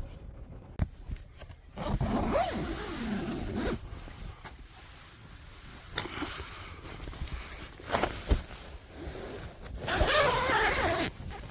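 A tent zipper pulled open in several short runs, with rustling of the tent fabric.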